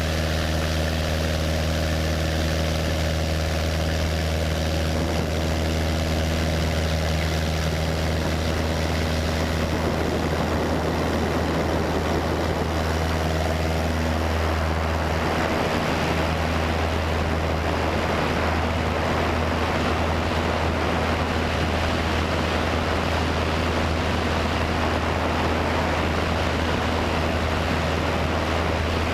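Cessna 172's piston engine and propeller running steadily, a deep even drone with a broader hiss building up about halfway through.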